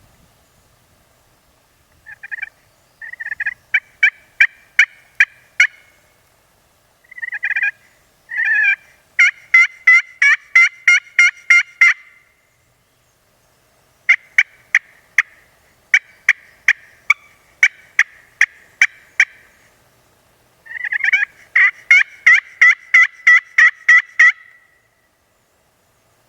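Turkey call sounding loud runs of hen yelps, four series of roughly eight to twelve sharp notes at about two to three a second, with short pauses between.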